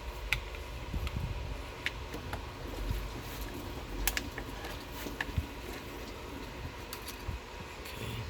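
Hands working at a stuck hose or connector in a car's engine bay: scattered light clicks and taps of plastic and metal parts, with low handling rumble.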